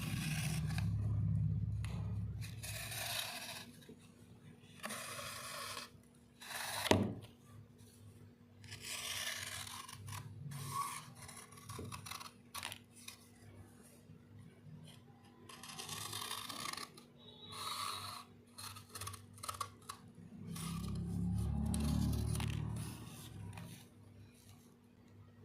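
A series of separate scraping and rubbing strokes, each about a second long, with one sharp click about a third of the way through and a low rumble at the start and again near the end.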